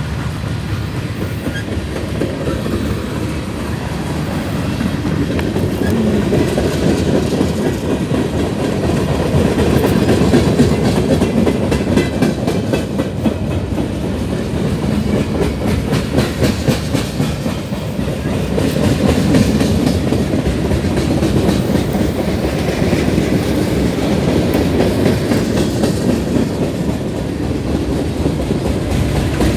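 Freight train cars rolling past, with a steady clickety-clack of wheels over the rail joints.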